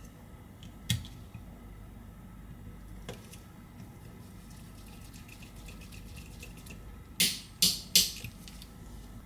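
Small tools and phone parts clicking and tapping against an iPhone frame during repair: a sharp click about a second in, light ticking later on, then three loud sharp clicks in quick succession near the end.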